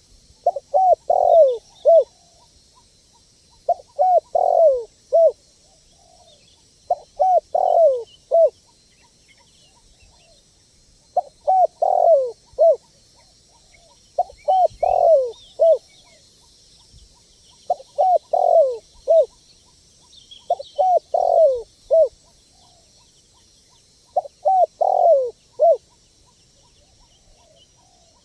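Spotted dove (tekukur) cooing: the same phrase of three or four low, falling coos repeats about every three seconds, eight times. Faint high chirps of small birds sound in the background.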